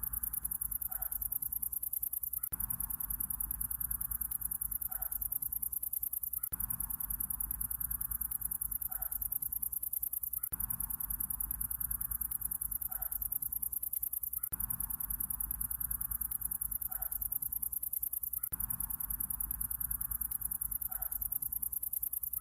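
Night insects trilling in a steady, very high, rapidly pulsing chorus over a low rumble, with a short faint call once in every repeat; the ambience loops every four seconds.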